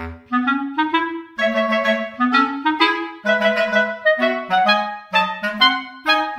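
Music: a single melodic instrument playing a quick line of short, separate notes, one pitch at a time.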